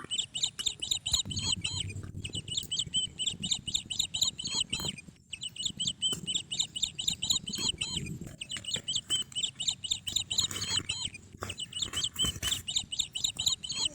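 Small birds chirping rapidly and continuously, several short high notes a second, with brief breaks and faint low knocks underneath.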